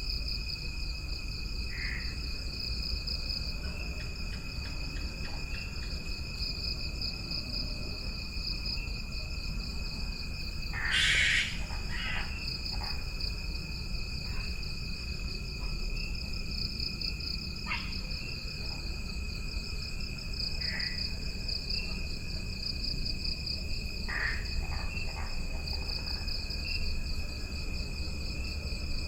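Insects trilling without a break, one in a high pulsing whirr and another holding a steady lower tone, with a few short animal calls scattered through. A brief, louder harsh call comes about eleven seconds in.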